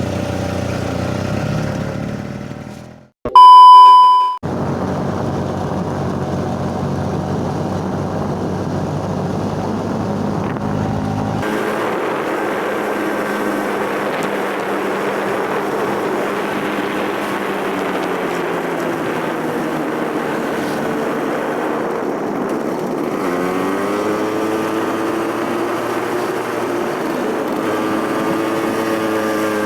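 Motor scooter engine running on the move, with steady road and wind noise; its pitch rises and falls in the second half as the throttle changes. Early on the sound fades out and a loud, steady beep tone sounds for about a second.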